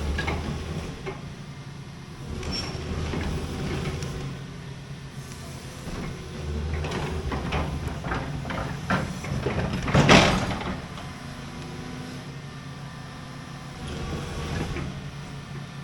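Large excavator's diesel engine idling steadily, heard from inside the cab, with a run of clunks and rattles from about six to ten seconds in, the loudest a sharp knock near ten seconds.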